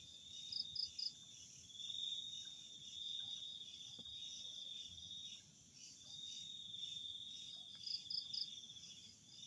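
Night insects, likely crickets, trilling: a high, steady trill in long stretches broken by short pauses, with a quick group of three higher chirps near the start and again near the end.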